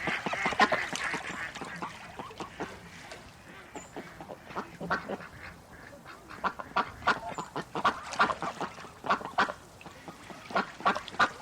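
Ducks quacking: a dense flurry of calls right at the start, then a lull, then runs of short, repeated quacks through the second half.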